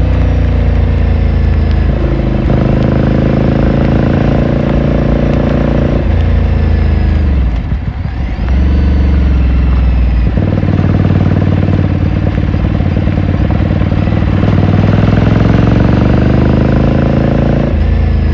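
Ducati Scrambler Sixty2's air-cooled L-twin heard onboard while riding: steady running with several gear changes, a brief throttle-off dip with falling revs about eight seconds in, then revs climbing steadily before another shift near the end.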